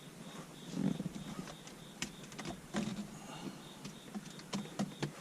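Scattered light clicks, taps and rustles of hands working on plastic parts and wiring, with a faint high tone pulsing about twice a second.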